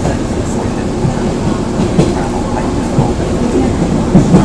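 Commuter train running, heard from inside the carriage: a steady rumble of wheels on the rails, with a few louder knocks as the wheels cross rail joints, twice near the end.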